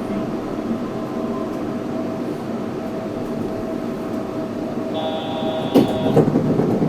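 Yurikamome 7300-series rubber-tyred automated guideway train running, heard from on board: a steady running noise with a humming motor tone. Near the end, a higher whine rises for about a second, then a few loud knocks.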